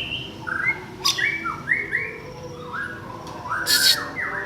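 Greater green leafbird (cucak ijo) chirping: a run of short whistled notes, many sliding down in pitch. There is a sharp click about a second in and a brief louder rustling noise a little before the end.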